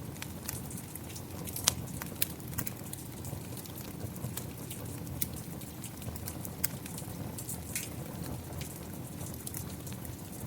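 Steady rain mixed with a crackling fire: an even, low noise with scattered sharp pops and snaps, one louder snap a couple of seconds in.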